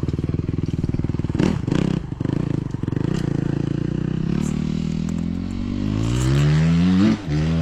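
Dirt bike engine running, then revving up with a steadily rising pitch over the last few seconds, with a brief sharp drop just after seven seconds before it picks up again. A few clattering knocks come through about a second and a half to two seconds in.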